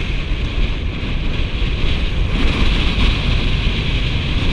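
Wind buffeting the microphone on a sailing Tornado catamaran, with water hissing past the hulls. The hiss grows louder about two seconds in.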